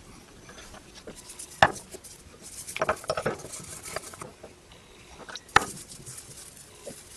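Small metal parts clinking and scraping as they are handled, with two sharp metallic clicks, one early and one near the end.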